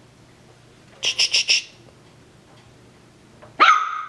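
A Coton de Tulear puppy gives one sharp, high yap near the end, while the litter plays. About a second in there is a quick run of short scratchy sounds.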